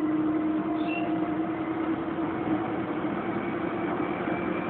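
Kenmore Oasis top-load washing machine spinning up in its spin cycle, empty: a steady motor hum with a fainter whine that edges up in pitch as the drum speed rises.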